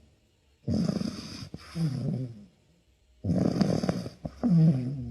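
A dog snoring loudly. It takes two full breaths, each a rough, rasping intake followed by a pitched exhale that falls in pitch.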